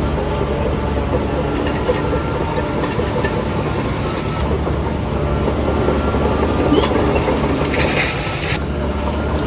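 Heavy earthmoving machinery's diesel engine running steadily under load, with a short burst of hiss about eight seconds in.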